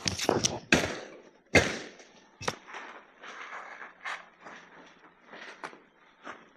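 A series of sharp knocks and cracks, the loudest four in the first two and a half seconds, followed by lighter irregular taps and rustling.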